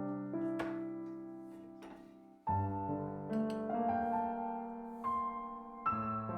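Background music: soft piano playing slow sustained chords, with a new chord struck about halfway through and another near the end.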